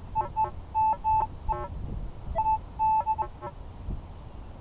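Minelab CTX 3030 metal detector beeping: about a dozen short tones in quick, uneven succession, some clean single beeps and some broken, stepped multi-tone chirps, as the coil sweeps back and forth over a target. The mixed, choppy response is what the detectorist reads as a lot of iron around it.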